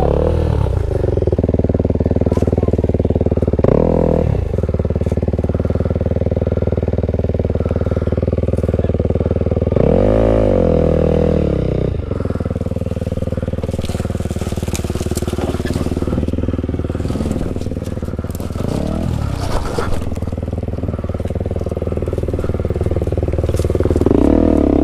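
Dirt bike running along a rough trail, its pitch rising and falling briefly several times, with scattered clatter and scraping from the terrain.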